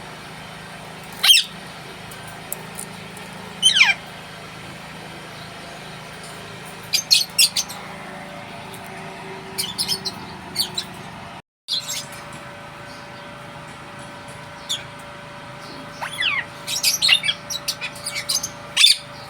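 Ring-necked parakeet giving short, shrill calls that sweep downward in pitch, scattered singly at first and then in a quick run near the end, over a steady low hum.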